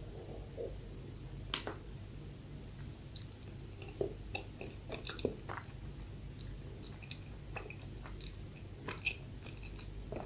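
Close-miked chewing of soft bread, with scattered wet mouth clicks and smacks; the sharpest click comes about a second and a half in.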